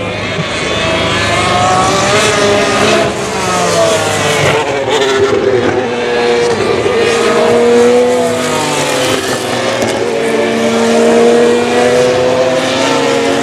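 Several GP3 race cars' 3.4-litre V6 engines running at high revs together, their notes overlapping and rising and falling in pitch as the cars accelerate and change gear.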